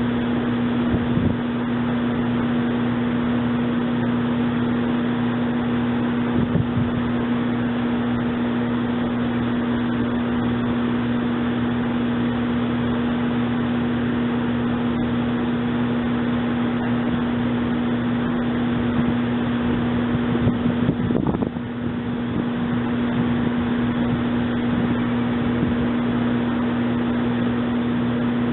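Steady electrical hum of a SEPTA Silverliner electric commuter railcar, held at one pitch with no rise or fall, over a constant rushing noise, with a few brief knocks, the most noticeable about three quarters of the way through.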